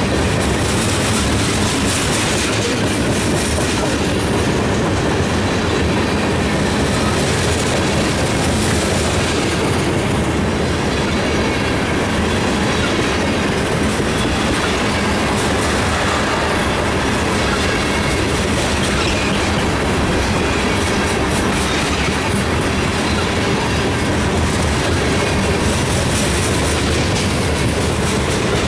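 Freight train cars, covered hoppers and tank cars, rolling past close by at speed: a steady, loud rumble of steel wheels on the rails, with repeated clacks as the wheels pass over the track.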